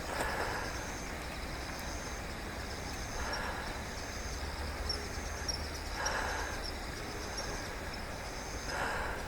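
Outdoor ambience of insects singing in a steady pulsing rhythm, over a low rumble of wind or distant traffic, with a soft noisy swell about every three seconds.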